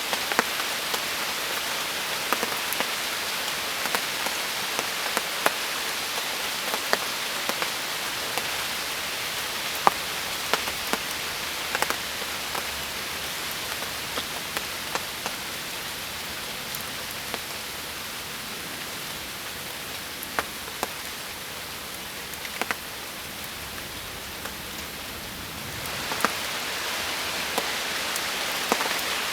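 Steady rain falling, with many sharp individual drops striking close by. It eases a little, then comes back slightly louder near the end.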